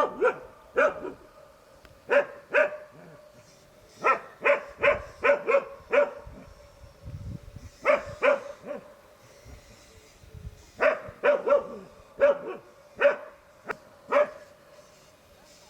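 Jindo dog barking in short bursts of two to six barks, about twenty barks in all, with pauses of a second or two between bursts.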